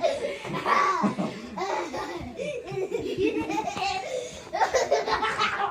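People laughing, with a few voiced bits between the laughs.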